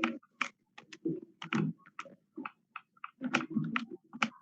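Irregular run of sharp clicks and taps, like keys being pressed, with muffled low sounds between them.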